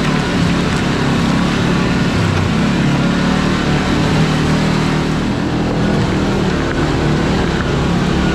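Kawasaki Teryx KRX4 1000 side-by-side driving slowly up a rocky trail: a steady engine drone with a continuous noisy rush over it.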